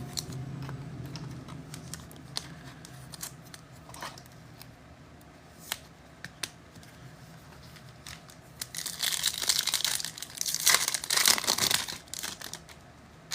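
A few light clicks and taps of cards being handled, then about four seconds of loud crinkling and tearing as a trading-card pack wrapper is ripped open.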